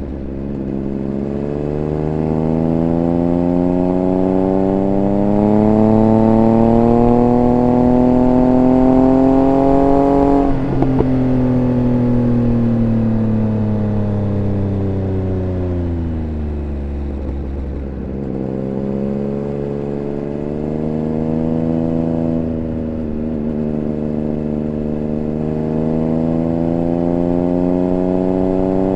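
Triumph Speed Triple 1200 RR's 1160 cc inline three-cylinder engine heard from onboard, its pitch climbing slowly under throttle for about ten seconds. The throttle then shuts with a brief crackle and the engine winds down for several seconds as the bike slows, before pulling up again toward the end.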